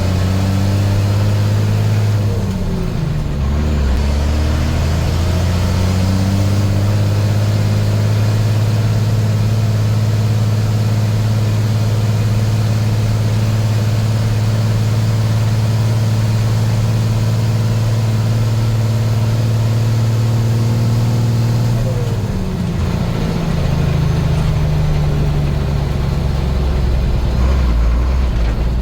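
International DT466 inline-six turbo diesel in a 1987 International S1900 dump truck, running under way. The revs drop and climb back near the start, as at a gear change, hold steady for a long stretch, then drop to a lower, steady pitch near the end.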